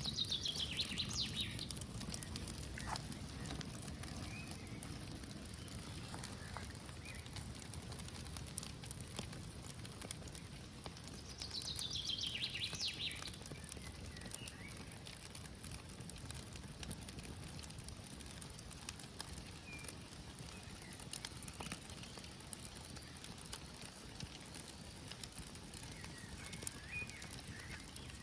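Small birch-bark campfire crackling with scattered faint pops. A songbird sings twice, a short descending trill near the start and again about twelve seconds in.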